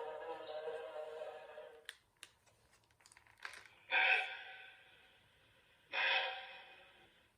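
Recorded woodland animal sounds played back from a children's sound book: a held pitched call that stops about two seconds in, a few sharp clicks, then two short loud calls about two seconds apart, each fading away.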